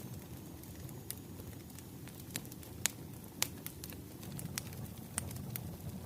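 Wood fire burning: a steady low rumble with sharp crackles and pops of the firewood scattered irregularly through it, the loudest pops around the middle.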